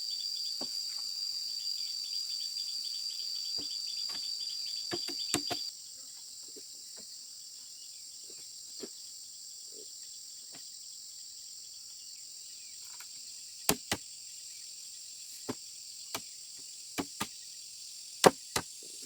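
Insects chirring steadily, with a high buzz that cuts off suddenly about six seconds in while a fainter high drone carries on. Through the second half come about eight sharp, separate knocks.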